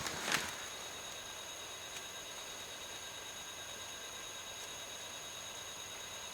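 Steady low hiss with a thin high whine, the background noise of the recording, with one brief soft knock just after the start. No engine running and no other distinct sound.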